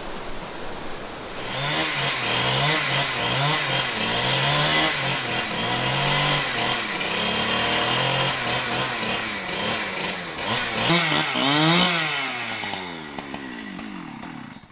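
Two-stroke chainsaw running, its engine note rising and falling over and over as it is revved and loaded. Near the end it revs up and down quickly, then slows and stops abruptly.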